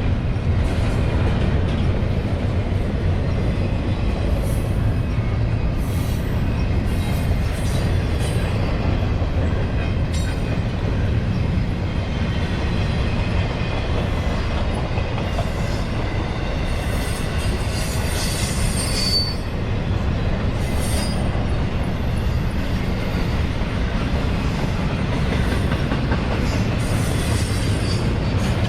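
CSX intermodal freight train rolling past: a steady rumble of cars on the rails with scattered clicks and occasional high-pitched wheel squeal.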